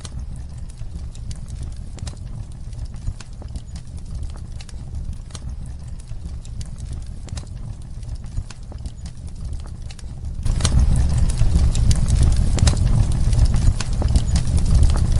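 Wood fire crackling in a fireplace: a steady low rumble with irregular pops and snaps. About ten seconds in it becomes louder, with denser crackles.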